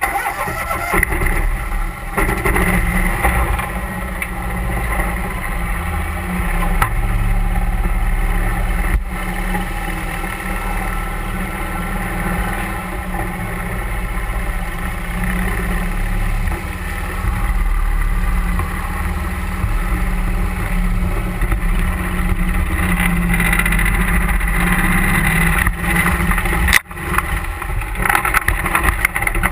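31-horsepower Mud Buddy Hyperdrive surface-drive mud motor running steadily under way, pushing a duck boat up a creek, with a brief dip near the end.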